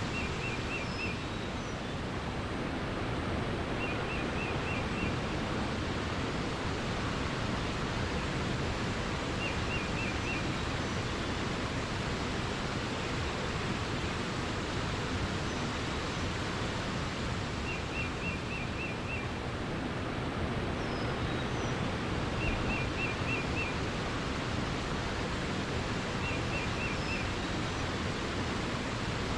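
Steady rush of flowing water, with a small bird singing a short, high phrase of about five quick notes, repeated every few seconds, and an occasional fainter higher chirp.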